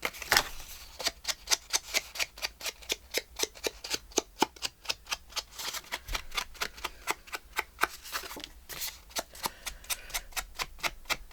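A run of quick, sharp clicks, about four a second, from paper and craft tools being handled at work.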